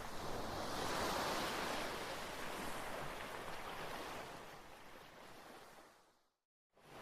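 Ocean waves washing on a shore, a steady surf noise that swells about a second in, then fades away to silence near the end before rising again.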